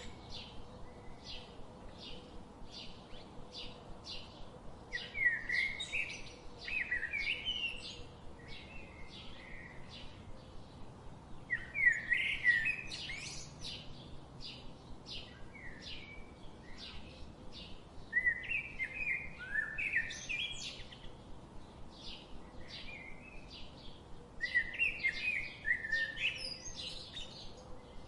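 Birds singing: short chirps repeat about once or twice a second, and a louder warbling phrase breaks in every six seconds or so.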